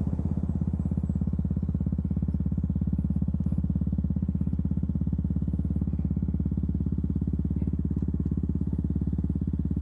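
KTM Duke 200's single-cylinder engine running at a steady, unchanging pitch, a rapid even pulse of firing strokes.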